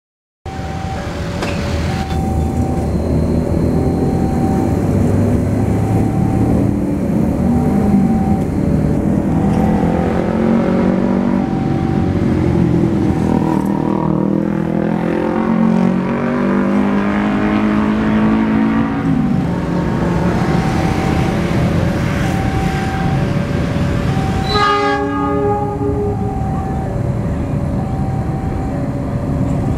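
Diesel locomotive engine running as the train approaches, its pitch rising for several seconds in the middle. A level-crossing warning signal chimes in two alternating tones about every second and a half. A train horn blasts once, about a second and a half long, near the end.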